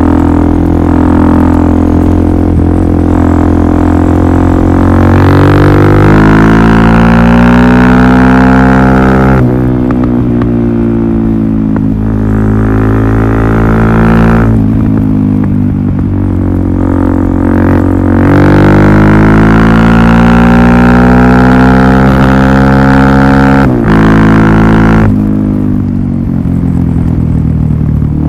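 Suzuki DR-Z400SM's single-cylinder engine through a Yoshimura full exhaust system, loud and unmuffled as it pulls under throttle. Its pitch climbs steadily and then drops sharply about four times.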